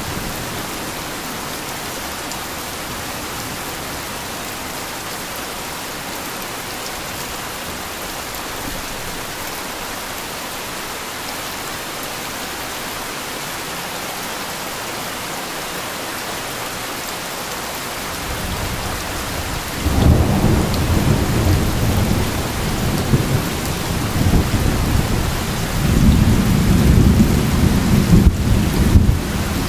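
Heavy rain falling steadily, with thunder: a rumble dies away just after the start, and another rolls in about two-thirds of the way through, growing loud and swelling again near the end.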